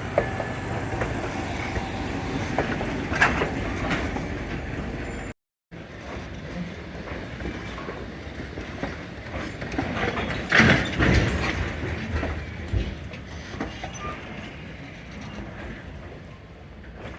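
Durango & Silverton narrow-gauge train rolling through the rail yard: a steady rumble with scattered clicks and knocks from the cars. The sound cuts out for a moment about five seconds in, and a louder stretch comes near the middle.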